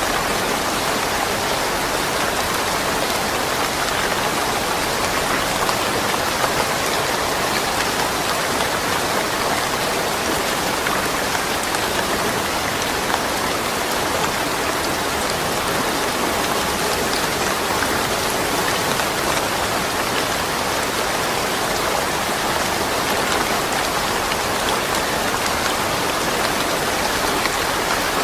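Steady rain falling, an even continuous patter without thunder.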